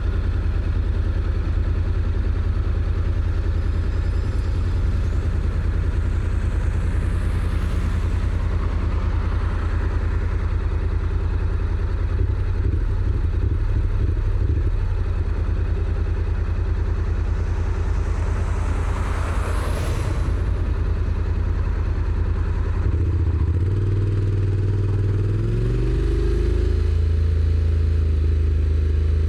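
Honda NC750X's parallel-twin engine running steadily at low revs, then, from about 23 seconds in, pulling harder with the pitch rising in steps as the DCT gearbox shifts up. Two brief whooshes swell and fade, about 8 and 20 seconds in.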